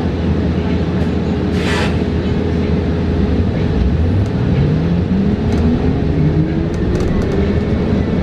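Cabin ride noise of a New Flyer XE40 battery-electric bus: steady road and body rumble, with the electric drive's whine rising smoothly in pitch from about halfway through as the bus speeds up. A short hiss about two seconds in.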